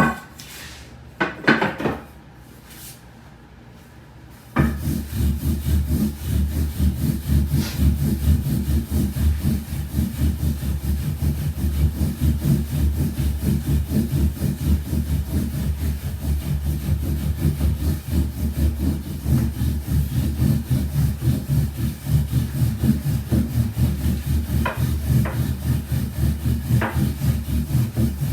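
Wooden rolling pin rolled rapidly back and forth over soba dough on a wooden board, rolling the dough out. It makes a steady, rhythmic rubbing rumble that starts abruptly about four and a half seconds in, after a few light knocks.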